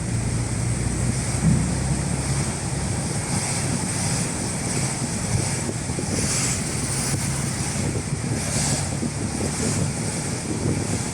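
Road noise inside a moving car: a steady low engine hum under the hiss of tyres on a wet road, the hiss swelling briefly a few times.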